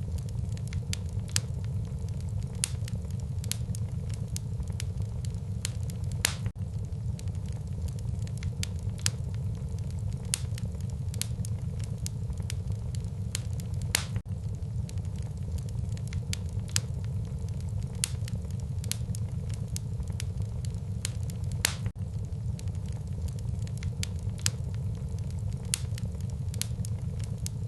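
Wood fire burning in a fireplace: irregular sharp pops and snaps of crackling wood over a steady low rumble.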